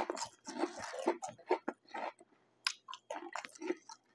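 Close-miked chewing of crunchy chips: irregular crisp crunches and mouth sounds, loudest right at the start.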